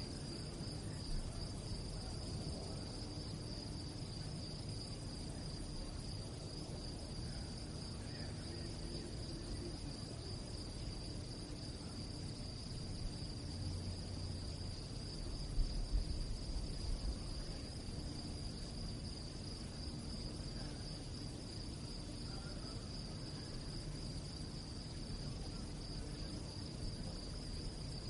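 Crickets chirping in a steady, unbroken high-pitched chorus over a low rumble, with a few brief low thuds about halfway through.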